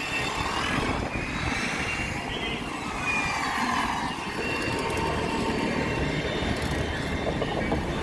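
Steady wind rushing over the microphone and traffic noise during a bicycle ride.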